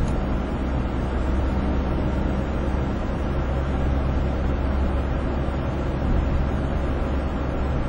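Steady engine drone and road noise heard from inside a moving van's cabin, an even low rumble with tyre hiss and no sudden events.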